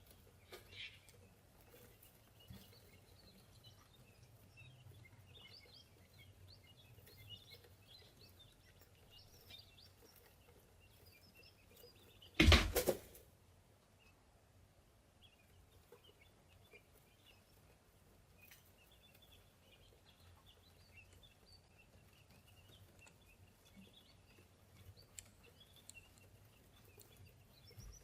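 Tiny birds chirping, a steady scatter of short high peeps, with one loud thump about halfway through.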